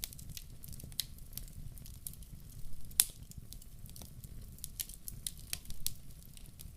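Wood fire in a fireplace crackling: irregular sharp pops and snaps over a steady low rumble of burning, with one louder pop about three seconds in.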